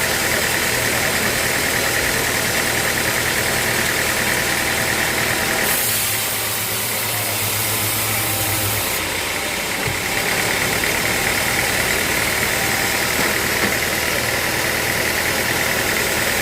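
Sawmill machinery running steadily: a motor hum under a constant high whine. About six seconds in the whine drops away for roughly three seconds while a higher hiss rises, then the steady running sound returns.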